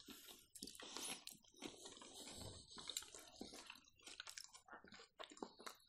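Faint, close-miked chewing: mouths working through food with many small wet clicks and crackles.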